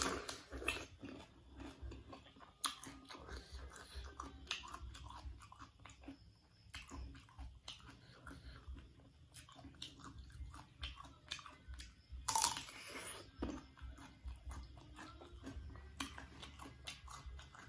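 Close-up biting and chewing of raw unripe green banana, with crisp crunches and wet mouth clicks; one louder crunch about twelve seconds in.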